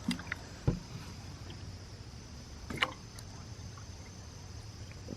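Camp cooking gear being handled: a few light knocks and clicks, with a low thump a little under a second in and a sharper click near the middle, over a quiet steady background.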